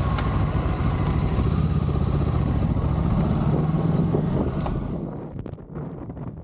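Motorcycle engine running on the road, with wind rushing past. About five seconds in it cuts off suddenly to quieter wind noise.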